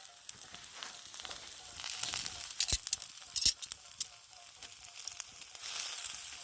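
Chicken sizzling on a flat rock heated over a campfire: a steady high hiss with scattered crackles and a couple of sharper pops about two and a half and three and a half seconds in.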